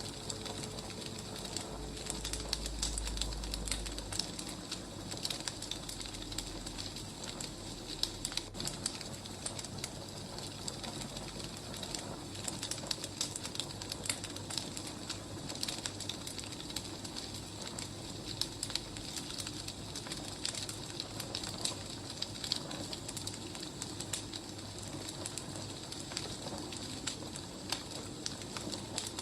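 Wood fire crackling, with frequent small snaps and pops over a steady hiss.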